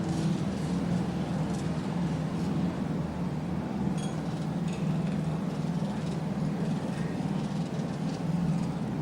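Steady low mechanical rumble, with a faint metallic clink about four seconds in.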